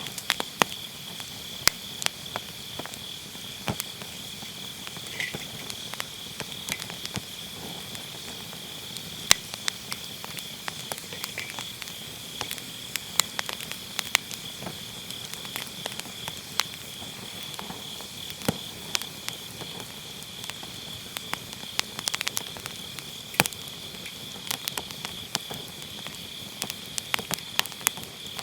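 Firewood burning in a round fire pit, crackling with irregular sharp pops, a few of them louder. Autumn grass insects chirr steadily and high behind the fire.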